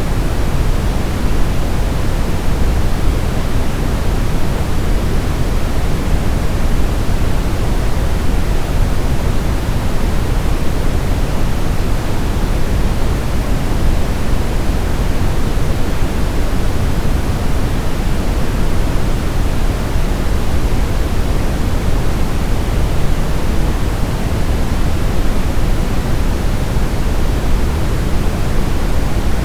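Continuous generated sleep noise, a steady, unchanging hiss with most of its weight low down, deeper than true white noise and closer to pink noise.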